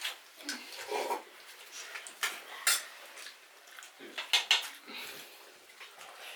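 Spoons and hands clinking and scraping on metal plates and pots, in scattered irregular clinks.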